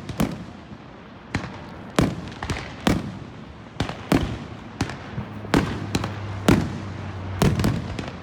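Fireworks display: aerial shells bursting in quick succession, about two sharp bangs a second, each with a short echoing tail.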